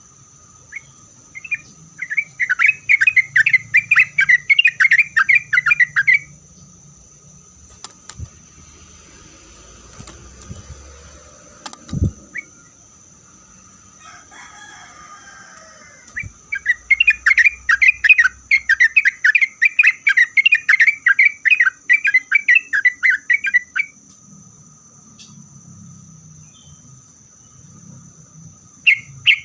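Yellow-vented bulbul (trucukan) singing in two long bouts of rapid, repeated chattering notes, one near the start and a longer one past the middle. A steady high-pitched whine runs underneath.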